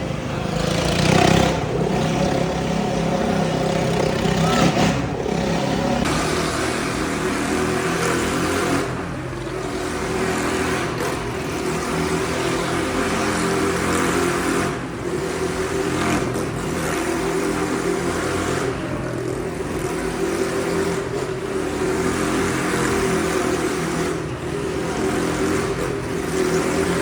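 Engines of vehicles circling the wall-of-death drum, running and revving continuously, their pitch wavering up and down as they lap.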